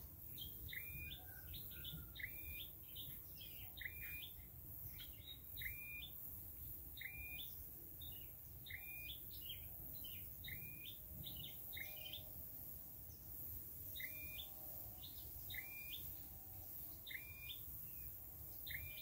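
A songbird calling over and over in short, hooked chirps, about one to two a second, with a brief pause near the middle.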